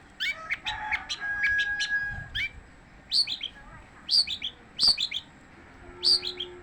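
Long-tailed shrike singing on and on: quick high chirps in runs of three or four falling notes, with a held whistled note about a second in.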